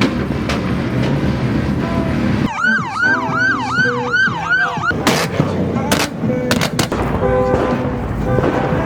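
Police siren in yelp mode: about six fast sweeps that each rise and then drop sharply, lasting about two and a half seconds, partway through. Several sharp clicks follow in the busy background.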